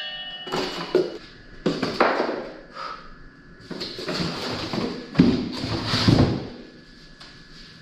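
Unpacking a boxed steel engine stand: an irregular run of knocks, taps and scrapes as the box and its parts are handled, with the two loudest knocks about five and six seconds in.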